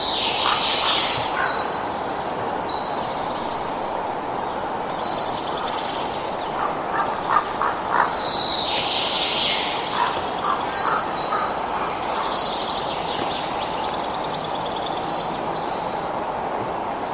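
Wild birds chirping and calling in short phrases every couple of seconds over a steady rushing background noise, with a few short clicking calls in between.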